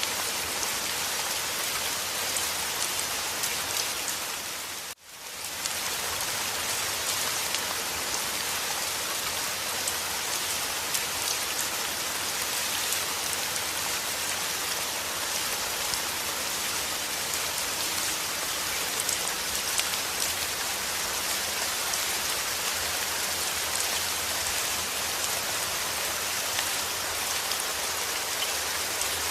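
Steady heavy rain falling, a dense even patter. About five seconds in, the sound briefly drops out and fades straight back in.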